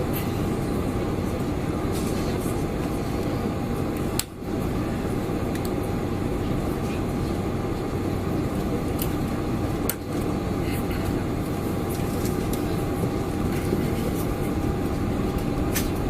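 Steady cabin noise inside a Boeing 747-400, a constant rush with a steady hum under it. The noise drops out briefly twice, about four seconds and ten seconds in.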